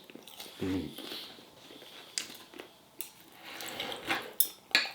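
Eating at the table: chewing with scattered light clicks and clinks of cutlery on a plate, and a brief hummed 'mm' from the eater near the start.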